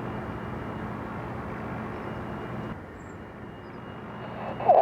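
Jet airliner engine noise, a steady whoosh heard from outside the aircraft, dropping suddenly in level about three seconds in.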